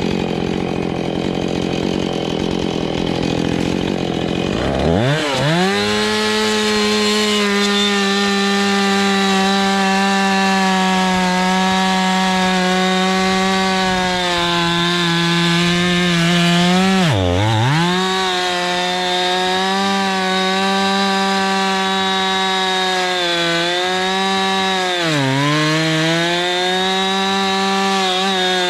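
Two-stroke chainsaw running hard through a log. Its pitch climbs sharply about five seconds in, holds high and steady, and sags briefly twice as the chain bogs down in the cut.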